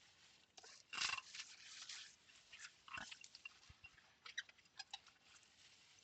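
Soft sounds of ceramic bowls being hand-washed in a sink: brief wet rustles of sponge and water, with a few light clinks between four and five seconds in.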